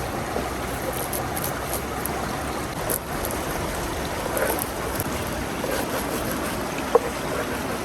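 River water rushing steadily, with a few faint ticks and one brief, sharper click near the end.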